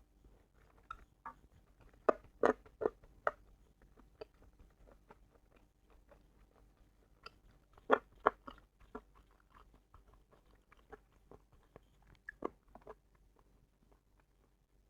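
Close-miked eating: a person chewing and biting food, with sharp wet mouth clicks that come in clusters a few seconds apart.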